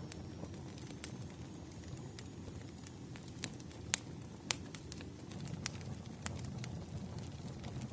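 Crackling campfire: a steady low rumble with irregular sharp pops and snaps.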